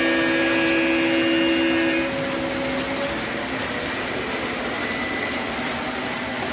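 Lionel model train's horn sounding one chord-like blast that stops about two seconds in. After it comes the steady hum of the train running on the track.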